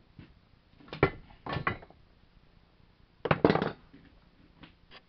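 Metal parts of a blown Briggs & Stratton lawn-tractor engine knocking and clattering as they are handled with the crankcase cover just removed: sharp knocks about a second in, another clatter midway, and lighter ticks near the end.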